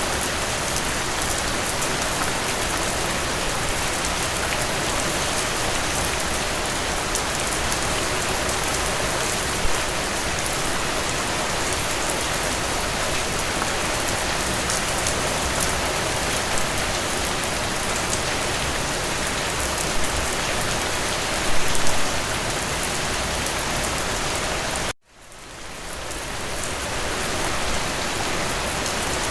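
Steady rain falling on a surface, a dense even patter, with a few brief louder splashes. Near the end it cuts out abruptly and fades back in over a second or two.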